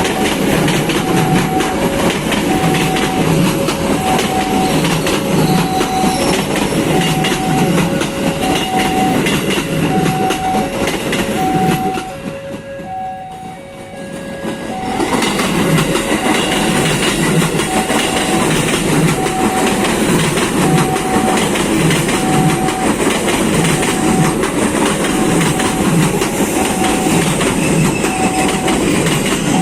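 Train passing with steady wheel clatter over the rails. A two-pitched warning signal beeps about once a second over it. The train noise dips briefly around the middle, then returns.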